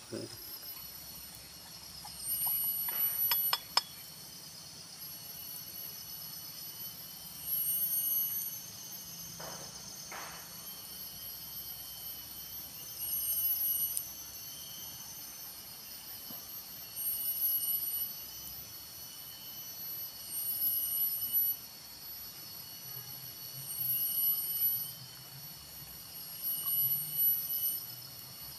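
Forest insects shrilling: a steady, high-pitched buzz that swells into louder bursts every three to four seconds. A few sharp clicks sound about three seconds in.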